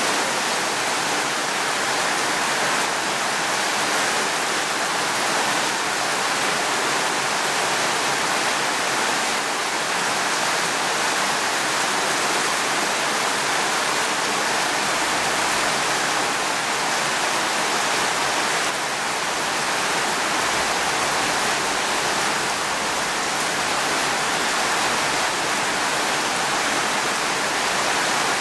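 Steady heavy rain, an even hiss that holds constant.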